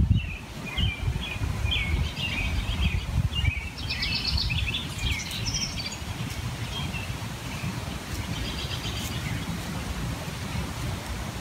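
Songbirds chirping throughout, with a couple of fast trills, over a steady low rumble.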